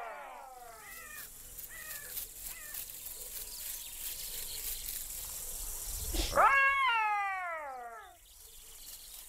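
Black-backed jackal calling: a few short yelps in the first seconds, then a loud wailing call about six seconds in that rises and then falls in pitch, with a brief rush of noise at its start.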